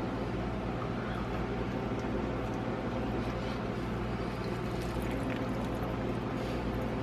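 Steady low hum and background hiss, with a few faint, wet clicks of someone eating ramen noodles, mostly in the second half.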